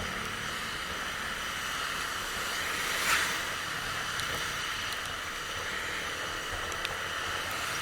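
Steady rushing wind and road noise of a motorcycle ride picked up by the rider's microphone, with a brief louder swell about three seconds in.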